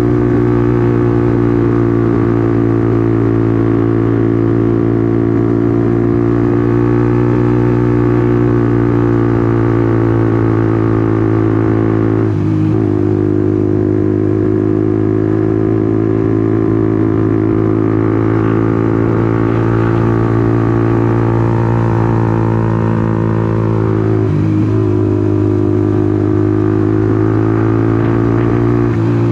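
Honda CBR150R's single-cylinder four-stroke engine running steadily under way. The engine note dips briefly twice, about twelve and twenty-four seconds in, and then picks back up.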